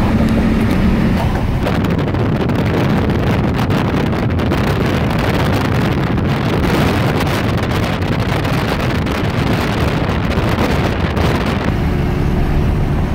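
A motor vehicle running at speed, heavily masked by wind buffeting the microphone. Faint steady engine tones show through near the end.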